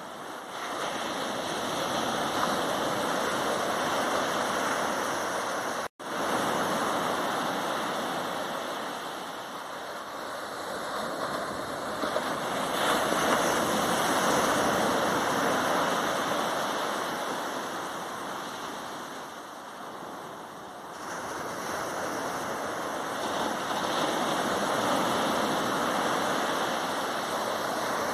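Ocean waves breaking on a sandy beach and washing back, the rush of surf swelling and fading in slow surges every several seconds. A momentary dropout about six seconds in.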